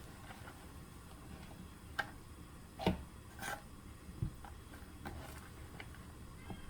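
A few scattered light knocks and clicks of objects being handled over a faint steady background, the loudest about three seconds in.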